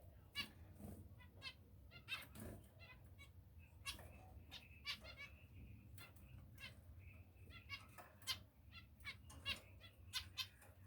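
Pet finches calling: many short, sharp chirps at irregular intervals, some in quick runs, with a few briefly held higher notes.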